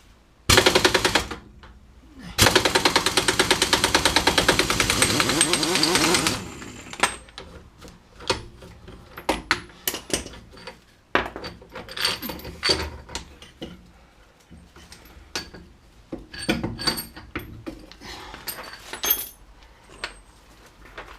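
Impact wrench hammering, first in a short burst and then in a longer run of about four seconds as a nut or bolt is spun off. After it come scattered metallic clicks and clanks of tools and parts being handled.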